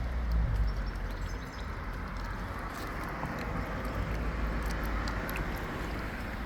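Outdoor street ambience: a steady background wash with a low traffic-like rumble that eases after about the first second, and a few faint ticks.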